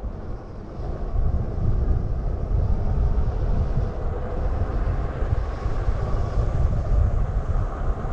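Wind buffeting the microphone with road rumble while riding an electric bike, a choppy low rumble that swells louder after about a second.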